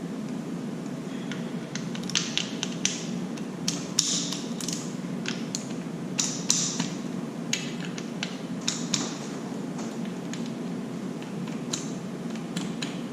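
Irregular clicks, taps and short scrapes of hand tools on metal as bolts are worked loose, busiest in the middle, over a steady low hum.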